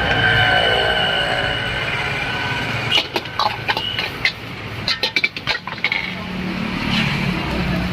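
Busy roadside traffic: a vehicle horn held for a few seconds and falling slightly in pitch, then a quick run of sharp metal clinks and clatter, then a steady low engine hum.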